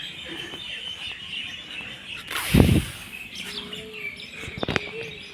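Small birds chirping and twittering steadily in the background, with a loud dull thump about halfway through and a sharp click near the end.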